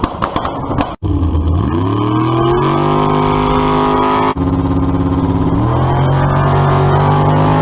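A motor-vehicle engine revving up and holding a steady higher speed, heard twice in clips cut together, after a second of sharp clicks and knocks.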